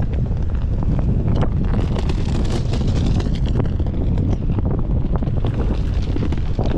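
Strong wind buffeting the microphone: a loud, steady low rumble with gusty hiss above it.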